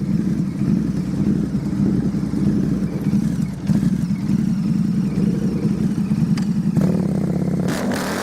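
Motorcycle engine running steadily with a throbbing low note, picking up a brighter, harsher edge about seven seconds in.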